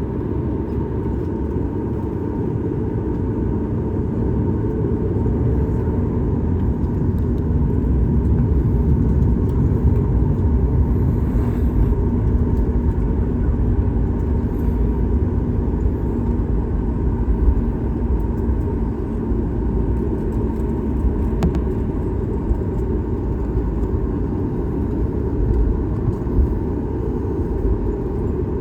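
Steady low rumble inside the cabin of a Boeing 737 MAX 8, from its CFM LEAP-1B engines and the airframe, with a faint steady hum running under it.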